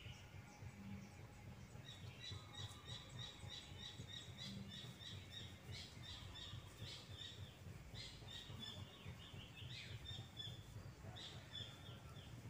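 A small bird chirping in a long series of short, high notes, about three to four a second, starting about two seconds in and stopping near the end, faint over steady low outdoor background noise.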